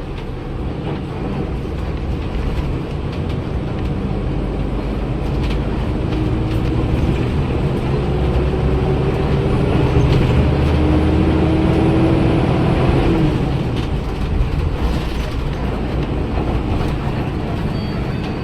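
Daewoo BS106 city bus's Cummins ISL Euro 6 inline-six diesel engine running under way. It climbs in pitch and loudness with a rising whine from about six seconds in, as the bus accelerates. The engine eases off shortly after the thirteen-second mark.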